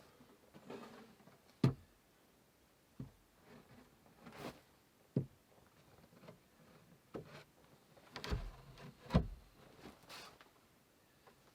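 Workshop handling sounds: irregular knocks and clunks of wood or tools being moved, with brief scrapes or rustles in between. The two loudest thuds come close together about eight and nine seconds in.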